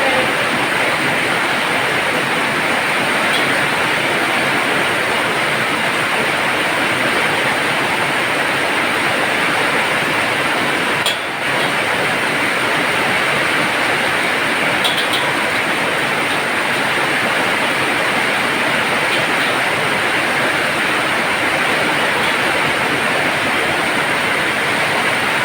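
Heavy rain pouring down in a steady, loud hiss, with a brief drop in level about eleven seconds in.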